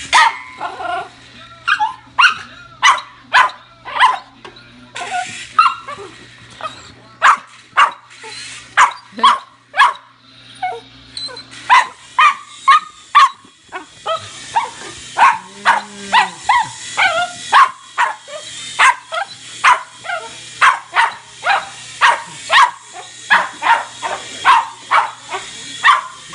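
A dog barking over and over, about two barks a second, with a steady low hum underneath.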